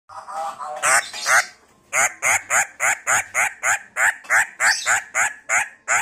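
A bird giving a fast series of short, harsh calls, about four a second, from about two seconds in, after a few irregular calls at the start.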